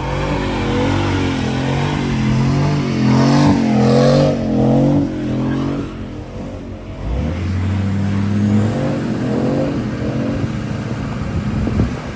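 Car engine revving hard during a burnout, its pitch rising and falling. It drops off about seven seconds in, then picks up again.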